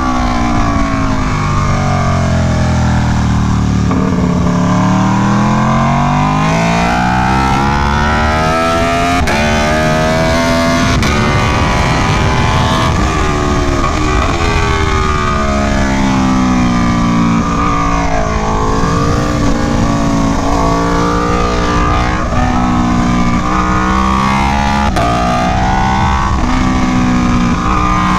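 Aprilia Tuono V4 1100 Factory's V4 engine revving hard under throttle. Its pitch falls as the bike slows and downshifts, then climbs through a series of upshifts, each marked by a quick drop in pitch, and the cycle repeats several times.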